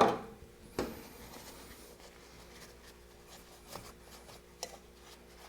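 Hand grease gun being worked on the front brake cam spindle boss grease nipples: two sharp clicks near the start, then soft rubbing with a few faint clicks.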